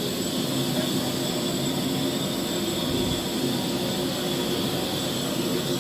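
Steady drone of a train: a low hum with a faint, steady high whine above it, unchanging throughout.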